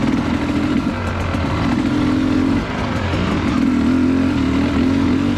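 Dirt bike engine running on the trail under changing throttle, its pitch dropping and then rising again about three seconds in.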